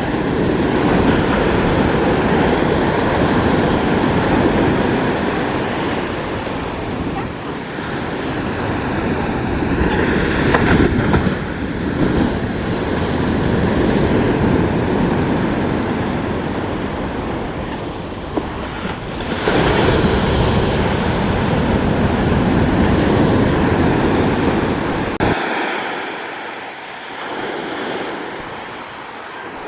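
Ocean surf with wind buffeting the microphone: a loud, steady rush that swells and eases in long surges. About 25 seconds in, the low rumble drops away suddenly.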